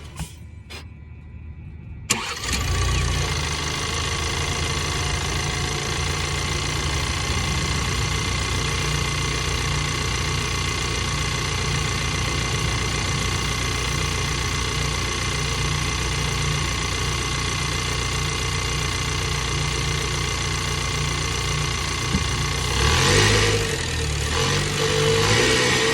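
2022 Ford Bronco's 2.3-litre turbocharged four-cylinder EcoBoost engine cranking and starting about two seconds in, after a short quiet spell with a few clicks, then idling steadily. Near the end it is revved briefly, twice.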